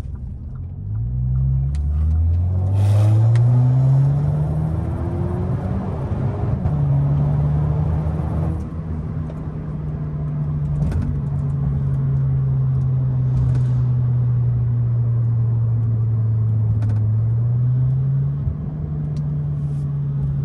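Audi A3 8Y engine through a muffler-deleted exhaust, accelerating in the first few seconds with its note climbing and dropping through the upshifts. It then settles into a steady cruising drone, with a short rise in pitch near the end.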